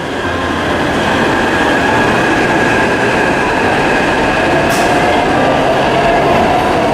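Train running on the rails: a dense, steady rumble and rattle with a constant high whine, and a second tone rising slightly in the second half. A brief hiss comes about two-thirds of the way through.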